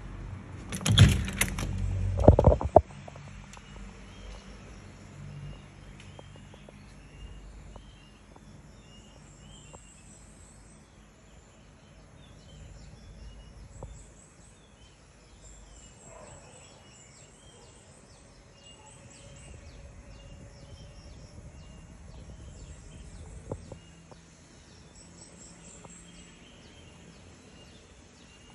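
Birds chirping repeatedly over a faint outdoor background, after a few loud knocks and rattles in the first three seconds.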